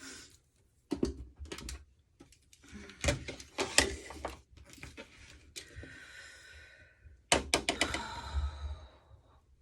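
Things being handled: clusters of sharp clicks and knocks with some rustling in between.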